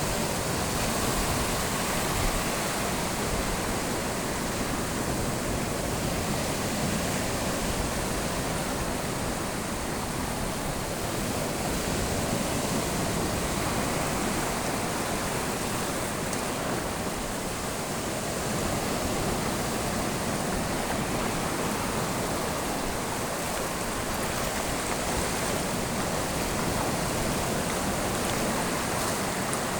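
Steady rushing sound of sea surf, swelling and easing gently every few seconds with no distinct breaks.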